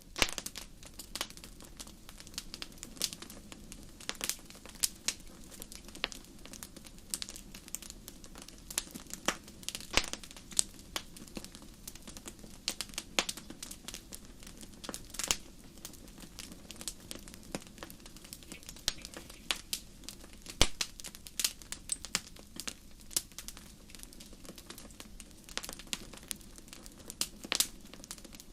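Wood fire crackling in a fireplace: irregular sharp pops and snaps, some louder than others, over a low steady rumble of the burning fire.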